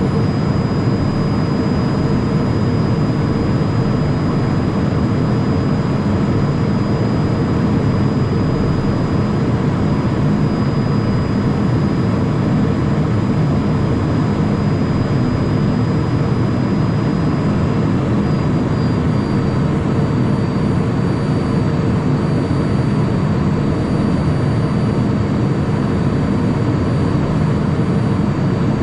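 Steady cockpit noise in a Cessna Citation Mustang twin-turbofan business jet: a constant rush of airflow and engine noise with a faint high whine that steps slightly in pitch about two-thirds of the way through.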